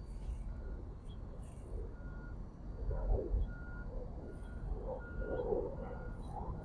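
Vehicle reversing alarm beeping steadily, about one high beep every three-quarters of a second, over a low rumble that swells twice.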